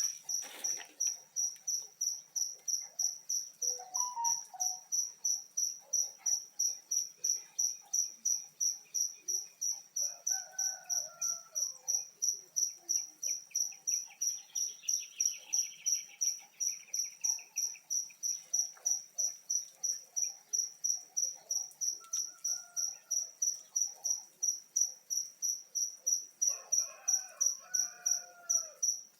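A cricket chirping steadily in a high, even pulse, about three chirps a second. Faint bird calls come and go behind it, with a brief trill about halfway through.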